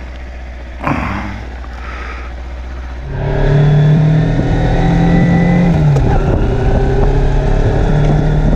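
Kawasaki Versys X300 parallel-twin motorcycle engine idling, with a short knock about a second in. At about three seconds the engine gets louder as the bike pulls away and accelerates, and its pitch dips briefly near six seconds at a gear change.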